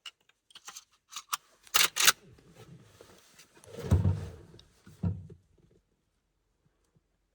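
Metallic clicks and clacks of a .45-70 lever-action rifle and its cartridges being handled and loaded, with a few sharp clacks close together just before two seconds in. Two dull thumps follow, one about four seconds in and one about five.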